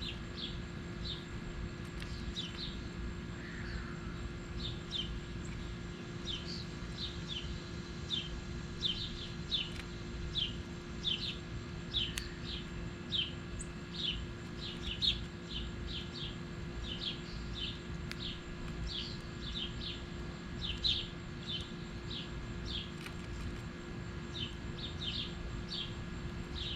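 A small songbird repeatedly giving short, sharp chip notes, about one or two a second, over a steady low hum.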